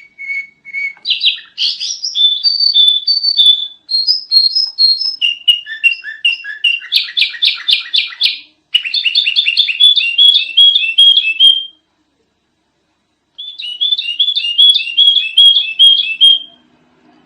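Sooty-headed bulbul (kutilang) singing loudly: fast runs of chirps and whistled notes. It breaks off for about a second and a half, then another quick chattering series follows.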